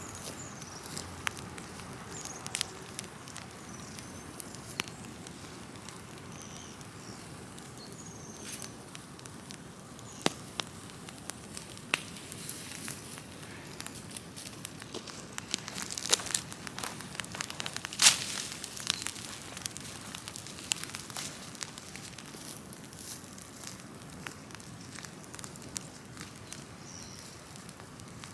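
Large open bonfire of cut trees and branches burning, a steady rush of flame with scattered sharp crackles and pops throughout, the loudest pop about 18 seconds in.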